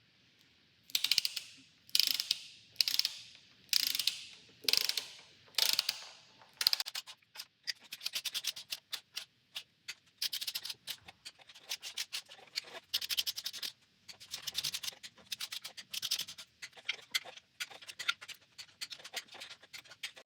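A ratchet-head torque wrench running down the LS3 timing cover bolts toward 18 pound-feet. First come about six long ratcheting strokes roughly a second apart, then quicker, shorter clicking strokes.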